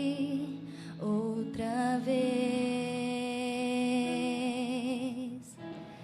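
Slow Portuguese worship song sung live: long held sung notes with vibrato, with a short break about a second in and a quieter dip near the end.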